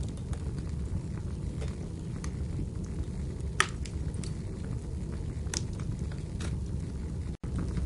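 Wood fire burning in a fireplace, crackling with scattered sharp pops over a steady low rumble, one pop louder than the rest about halfway through. The sound cuts out for an instant near the end.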